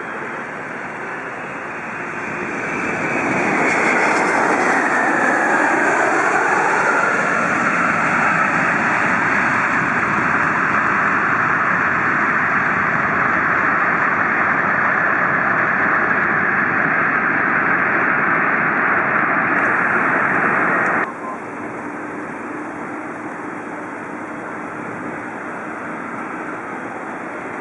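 Boeing 757-200 jet engines growing loud within a couple of seconds as the airliner passes close, with sweeping tones falling in pitch. A steady loud rush follows and cuts off abruptly about 21 seconds in, leaving quieter steady noise.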